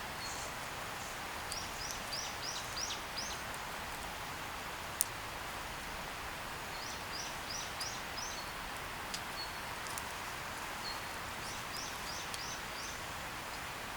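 A small bird sings the same short phrase of five or six quick, high notes three times, over a steady outdoor hiss. A single sharp click comes about five seconds in.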